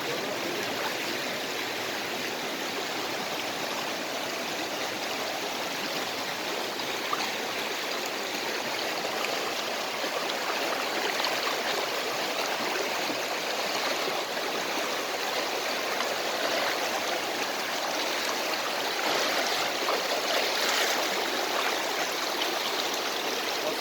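Rushing water of a mountain creek, a steady even rush that grows slightly louder about halfway through.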